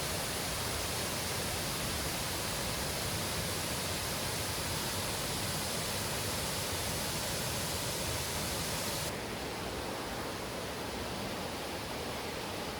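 Mountain stream rushing steadily over rocks and falls. About nine seconds in, it switches abruptly to a softer, duller rush.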